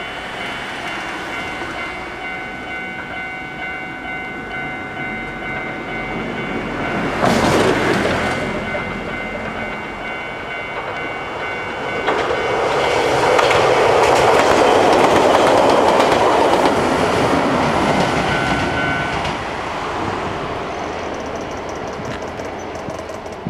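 Ichibata Electric Railway 2100-series electric train going by at speed: a short loud horn-like burst about seven seconds in, then the rumble and clatter of its wheels on the rails, loudest as it passes between about twelve and nineteen seconds and fading as it goes away. Steady high tones sound through the first part.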